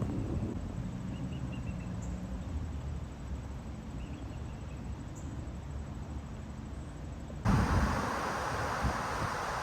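Wind and rolling noise from riding a bicycle, a steady low rumble with a few faint bird chirps. Near the end it switches abruptly to louder wind hiss on the microphone.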